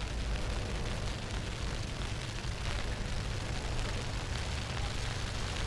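Wind buffeting the microphone in a steady low rumble, with an even hiss of street noise above it.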